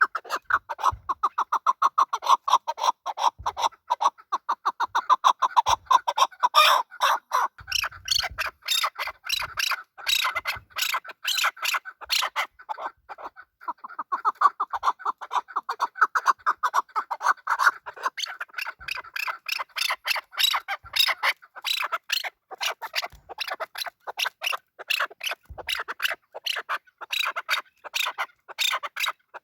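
Male chukar partridge (chakor) calling: a rapid, unbroken series of short, repeated chuck notes, several a second.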